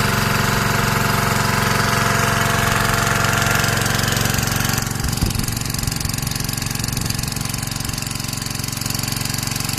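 Arimitsu Unispray CSE-320K power sprayer's small engine running steadily, its pump driven with a rapid knocking beat. About five seconds in, the higher hissing part of the sound drops away and the engine runs on.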